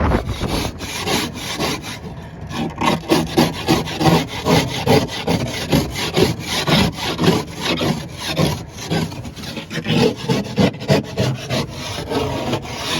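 Rhythmic crunching or scraping strokes, about two a second, each with a faint squeaky pitch.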